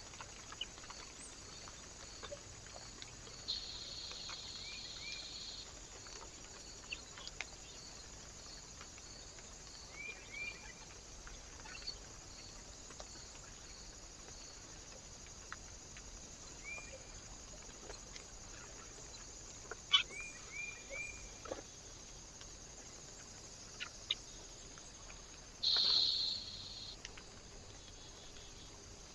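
Small birds giving short chirps, in twos and threes, several times over steady recorder hiss. Scattered clicks and two louder bursts of noise, one about four seconds in and one near the end, break into it.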